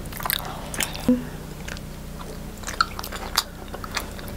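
People biting into and chewing soft, sticky pandan mochi (glutinous rice cakes), with scattered small wet clicks and smacks of the mouth.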